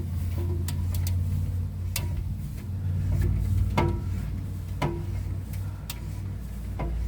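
A steady low hum with sharp clicks about once a second; the hum shifts in pitch about three seconds in.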